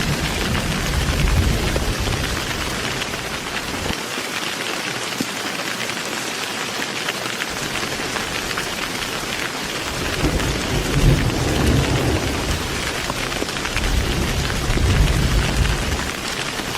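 Heavy rain falling steadily, with low rolling thunder rumbling during the first few seconds, dying away, then rumbling again through the second half.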